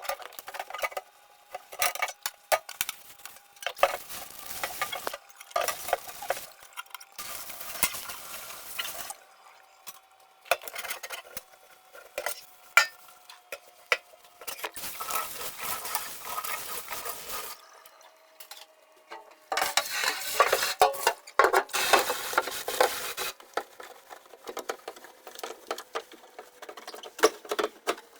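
Repeated bouts of scrubbing and rubbing on a surface, each a second or two long, mixed with clinks and knocks of dishes and containers being handled, as in cleaning out a refrigerator.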